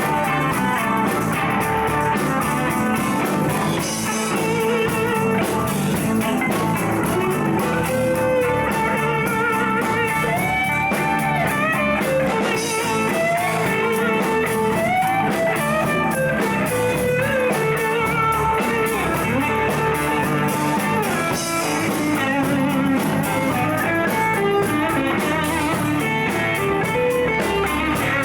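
Live blues-rock band jam: an electric guitar plays a lead line with bent notes over the rest of the band.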